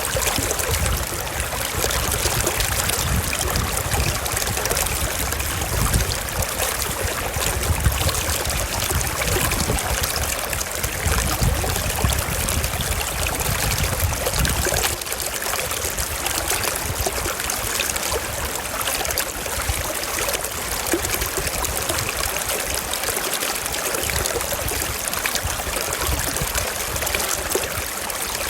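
Shallow stream running over rocks: a steady rush of flowing and trickling water, with a deeper rumble in the first half that eases about halfway through.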